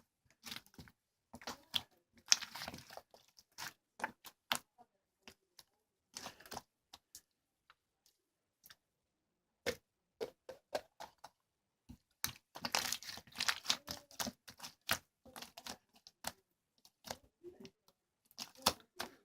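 Slime mixed with clay slime being squished and stretched by hand, giving irregular bursts of sticky crackling and popping separated by short pauses.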